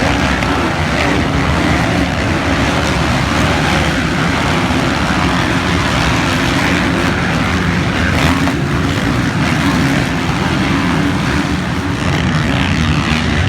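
Motocross motorcycle engine noise, loud and steady throughout.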